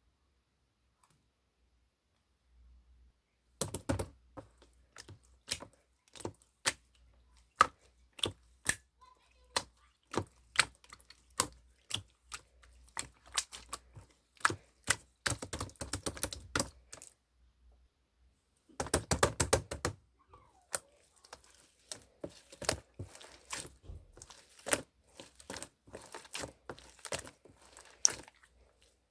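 Many quick clicks and taps from small craft materials being handled, irregularly spaced, starting a few seconds in, with two short stretches of denser rattling clicks in the middle.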